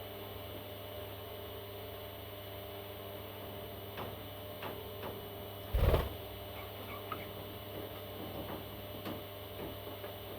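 Steady electrical hum with a few light clicks, and one louder thump about six seconds in.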